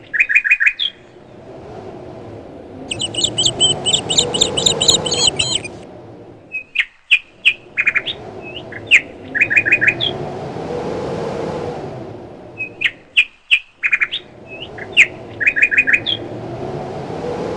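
Songbirds chirping in short repeated series, with a burst of faster chattering calls a few seconds in, over wind that rises and falls in gusts and drops away twice.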